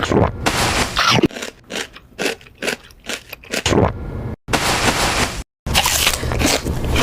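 Close-miked eating sounds: crunchy food being bitten and chewed in a quick run of short crunches, with scraping noise around them. The audio is spliced, cutting out abruptly twice near the middle.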